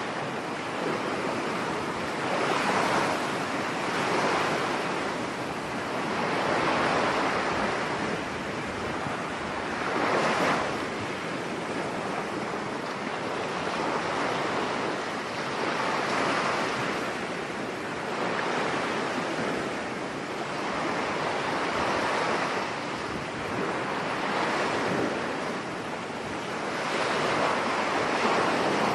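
Surf breaking on a beach in stormy weather, the waves surging and easing every few seconds, with wind.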